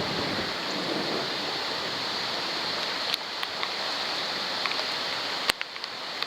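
Thunderstorm rain pouring down in a dense, steady hiss, with scattered sharp ticks of drops striking the waterproof camera.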